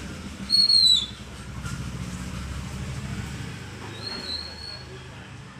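Alexandrine parrot giving two short, high whistles: a loud one about half a second in that dips in pitch at its end, and a softer one about four seconds in, over a steady low rumble.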